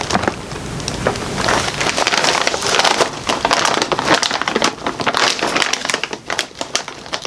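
Plastic snack bag being handled and opened, crinkling in a dense stream of crackles.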